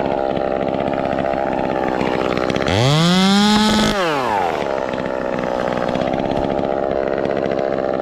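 Ported Echo 2511T top-handle two-stroke chainsaw idling, then revved up to high throttle once about three seconds in. It holds there for about a second before dropping back to idle.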